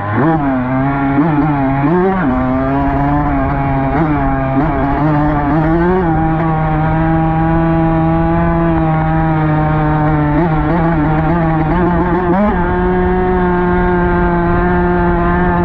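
Dirt bike engine under way. The revs rise and fall for the first several seconds, then settle into a steady cruise, with a brief dip and then a step up to a higher steady pitch near the end.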